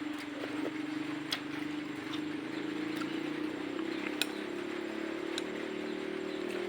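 A motor running steadily, its hum creeping slightly higher in pitch, over an even hiss, with a few sharp clicks.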